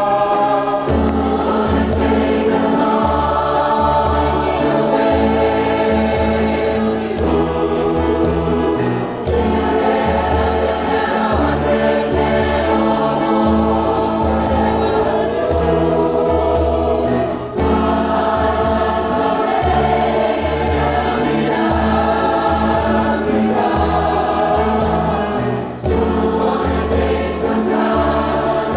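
Community choir singing a song in several parts over a steady percussion beat.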